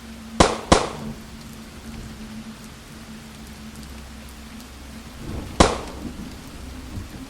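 Steady rain falling, broken by three sharp cracks: two in quick succession near the start and one more about five and a half seconds in.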